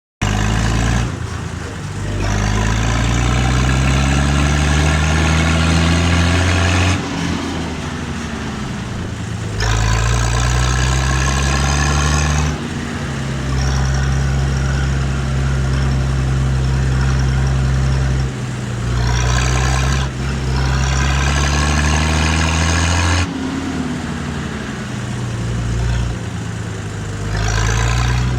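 Hanomag Robust 900 tractor's diesel engine running through its original exhaust. It is revved up several times, rising steadily in pitch, then dropping back toward idle, with one stretch held at raised speed in the middle.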